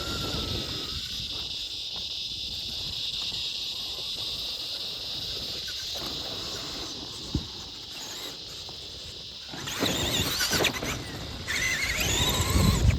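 Traxxas Summit RC truck's stock brushed electric motor and gears whining steadily as it drives, with a single knock about seven seconds in. In the last few seconds the motor revs harder, giving a louder, warbling, rising whine.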